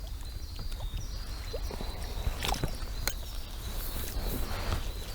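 Scattered short knocks and water splashes as a small hooked carp is brought to the boat and landed, over a faint steady high-pitched chirring in the background.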